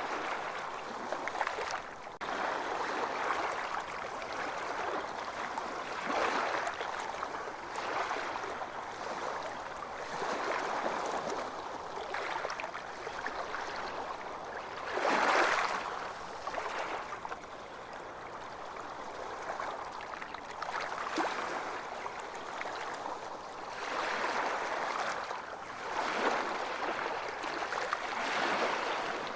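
Ocean waves washing onto a beach, a steady rush of surf that swells and falls every few seconds, with the biggest surge about halfway through.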